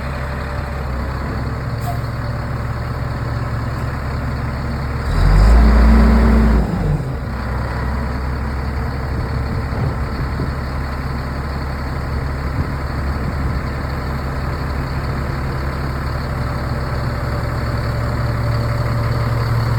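Diesel engine of a 1999 Freightliner FL70 dump truck idling steadily, with one brief rev about five seconds in that rises and falls over a second and a half.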